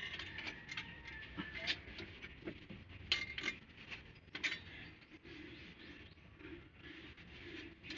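Irregular metallic clinks and taps of hand tools and engine parts being handled, with a few sharper knocks about three and four and a half seconds in.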